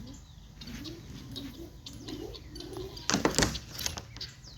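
Birds calling: a low, wavering coo of a dove and short higher chirps of small birds. A brief loud noise about three seconds in.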